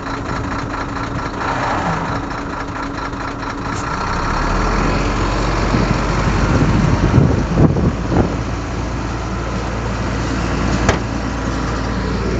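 Heavy diesel earthmoving machinery running. About four seconds in the engine grows louder and deeper, with uneven peaks for a few seconds.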